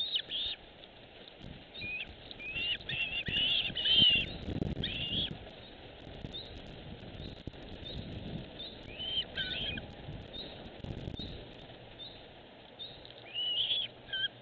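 Small birds chirping in short clusters of quick, curved calls, with pauses between them. A few soft, low, muffled sounds come in between the chirps.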